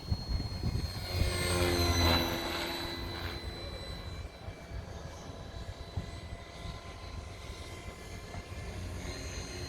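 Hirobo Lepton EX 500-class RC helicopter in flight: its rotor and drive whine swells to its loudest about two seconds in as it passes close, then eases back to a steadier, quieter drone.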